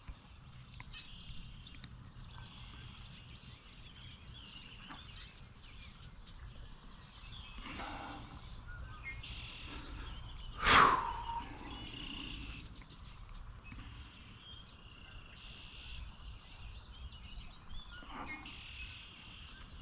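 Quiet riverside ambience: a steady low background hum with small birds chirping now and then. About ten seconds in comes one loud call that sweeps steeply down in pitch.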